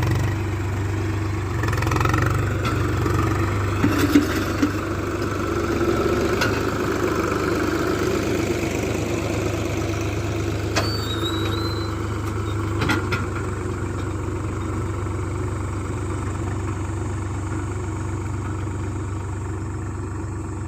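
Swaraj 735FE tractor's diesel engine running steadily at working revs, with a few sharp knocks or clanks along the way. The engine grows slightly quieter toward the end.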